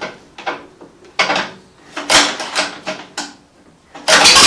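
A few sharp clanks and knocks of metal tools and parts being handled, then near the end a sudden loud rush of noise lasting about a second.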